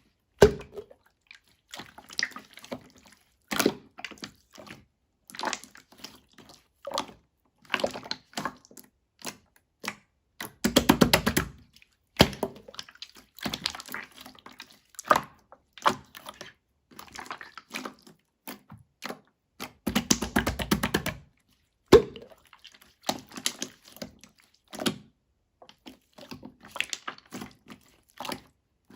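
Irregular taps, clicks and knocks of small hard objects, with two quick rattling runs of about a second each, one near the middle and one about two-thirds in.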